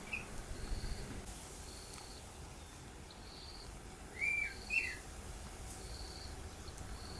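Wild birds calling in the bush: two short, louder bending calls about four seconds in, over a faint high chirp that repeats about once a second.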